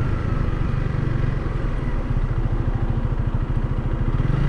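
Honda Rebel 300's single-cylinder engine idling with an even low pulse.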